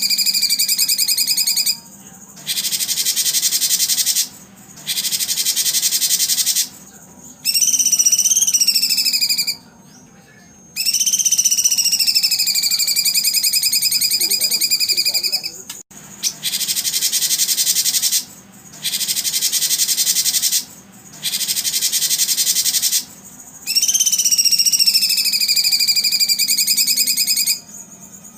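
Recorded songbird calls played for training competition birds: long, wavering whistled notes alternate with bursts of rapid, buzzy high trilling, each starting and stopping abruptly as in an edited, looped track.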